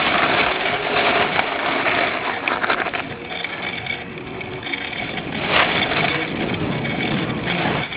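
Wind rush on a bike-mounted camera and the rattle of a cyclocross bike ridden fast over rough ground, surging and easing.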